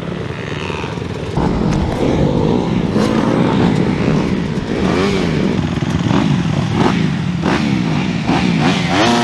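Several dirt bikes revving together, their engine notes rising and falling and overlapping. The sound gets louder about a second and a half in.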